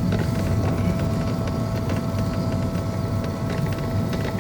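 Car engine and road rumble heard from inside the cabin as the car climbs a steep road. It is a steady low rumble with a thin steady whine above it.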